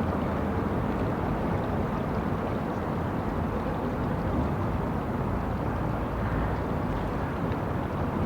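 Steady outdoor city ambience: an even, low rumble of distant traffic.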